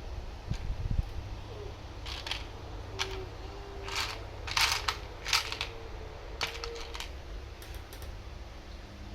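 Handling noise: two low knocks, then a run of short clicks and scrapes, over a steady low hum.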